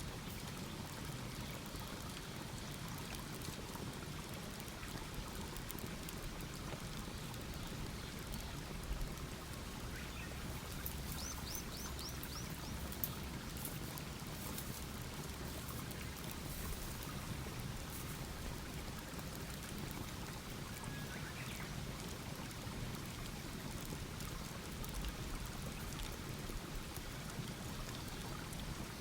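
Campfire burning with a steady hiss and scattered crackles and pops. A bird calls briefly, a run of five quick high notes about eleven seconds in.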